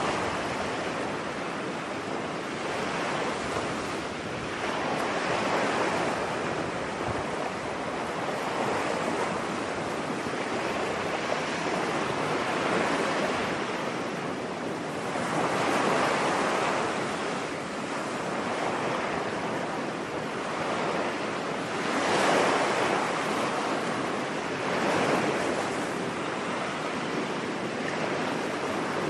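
Ocean waves breaking and washing on a beach, a steady rushing surf that swells and recedes every few seconds.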